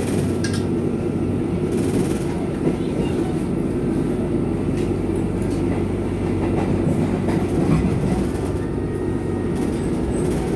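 Passenger train running, heard from inside the carriage: a steady low rumble of wheels and carriage on the track, with a few brief knocks.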